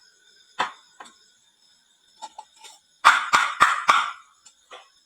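Marbles clacking as they run down a wooden marble-run slope and land in toy trucks: one sharp clack, a few light ticks, then a quick run of hard clacks and one more near the end, with a faint high ringing between the hits.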